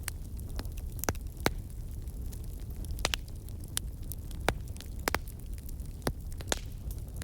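Campfire of burning wood logs crackling, with irregular sharp pops and snaps over a steady low rumble of the flames.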